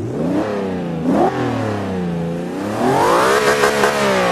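Car engine revving, its pitch climbing and falling several times, with a quick blip about a second in and a long climb near the end.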